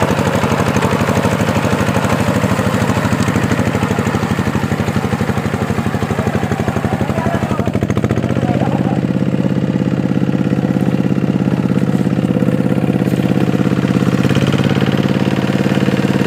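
Two-wheel tractor's single-cylinder diesel engine running steadily while ploughing a muddy paddy field. About eight seconds in its pitch rises slightly and it settles into a smoother, steady run.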